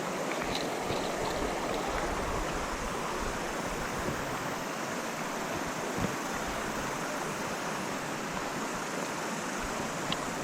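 Small mountain stream rushing steadily, with a couple of faint short knocks.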